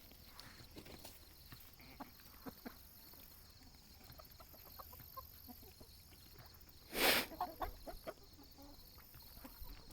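Backyard chickens clucking softly, with faint scattered short ticks and one louder, short burst about seven seconds in.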